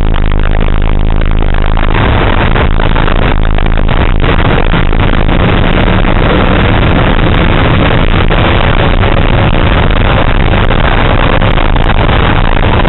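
Car engine pulling hard at high revs, heard loudly from inside the cabin while the car is driven at track pace, with road and wind noise.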